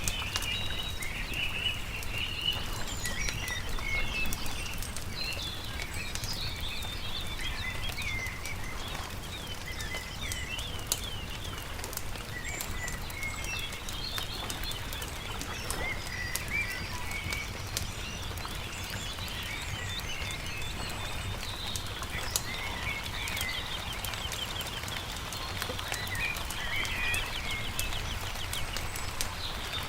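Songbirds chirping and trilling over a crackling campfire, with scattered sharp pops from the fire and a steady low rumble underneath.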